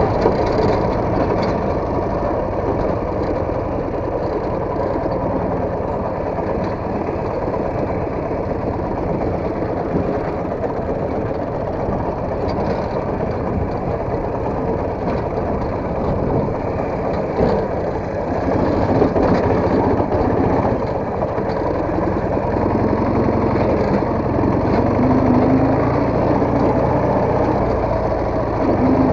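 Motorcycle engine running steadily, swelling a little in places.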